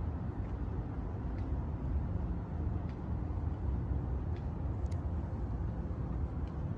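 Steady low rumble of outdoor city ambience, with a few faint light ticks about every second and a half.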